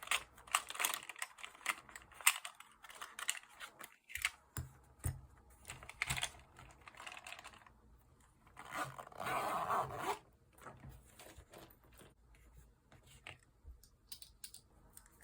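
Light clicks and scratchy rustling of paper being handled, with a longer tearing rustle about nine seconds in; after that only a few faint clicks remain.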